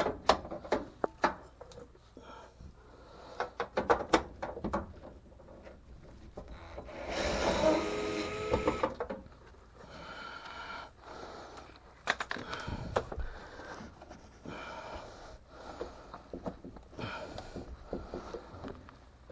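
Clicks, knocks and rattles of hands and tools working on a clothes dryer's sheet-metal panels and screws. About seven seconds in comes a louder scraping with a squeaky, pitched edge that lasts about two seconds.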